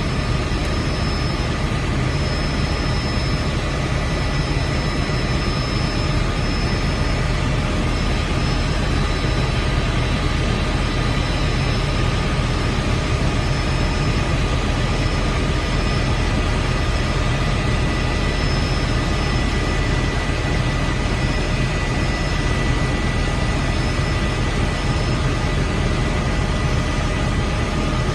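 Helicopter in flight: a steady, unbroken engine and rotor noise with a constant high whine over it.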